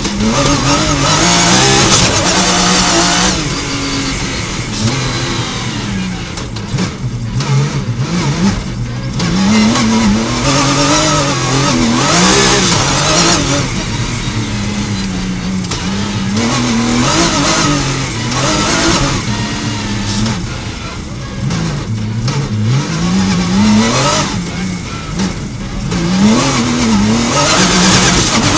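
Rally car engine heard from inside the cockpit, revving up and easing off again and again as the car accelerates out of and brakes into tight corners on a dirt stage, over steady road and gravel noise.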